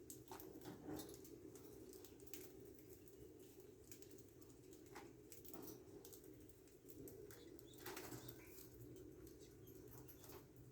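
Young budgerigars faintly fluttering their wings, with scattered small clicks over a low steady hum.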